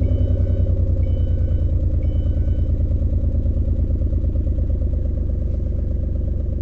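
2003 Ford Escape engine idling with an uneven, pulsing beat; it is misfiring on one cylinder from a bad ignition coil. A faint chime repeats about once a second and stops about three seconds in.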